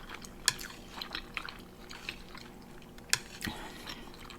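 Scattered wet mouth clicks and smacks of someone chewing spicy instant noodles, with a few sharp ticks about half a second in and three seconds in.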